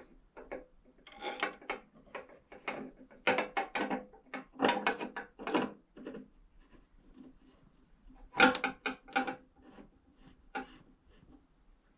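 Metal parts of a motorcycle hand change gear lever assembly scraping and clinking in irregular short strokes as the lever, bolt and washers are fitted, some strokes with a faint metallic ring; the loudest comes about two thirds of the way in.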